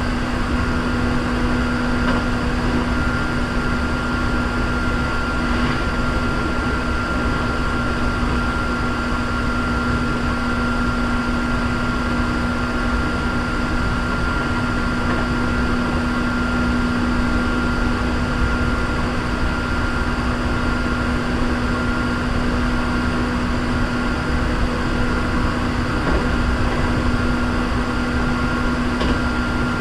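Hankyu 3300-series electric train running at a steady speed, heard from inside the car: an even rumble of the wheels on the rails with a constant hum held throughout.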